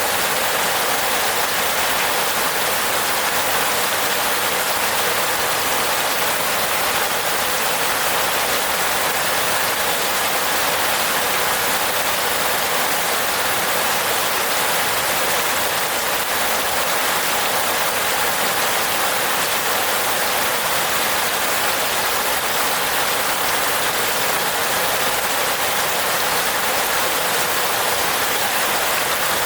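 Steady rain falling on a roof: an even, unbroken hiss with little low rumble, holding the same level throughout.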